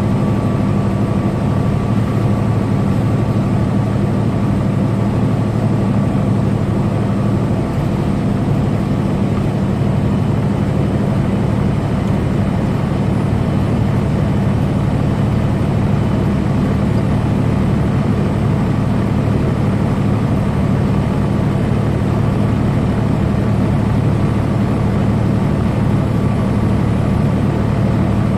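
Semi truck's engine and road noise at steady highway cruise, a constant low drone with no change in pitch.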